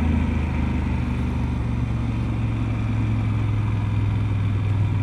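Motorcycle engine running steadily while riding, a low even hum.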